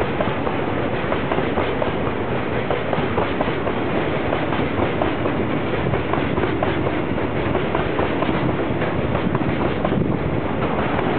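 Freight train of rail tank wagons rolling past at steady speed, steel wheels clattering continuously over the rail joints.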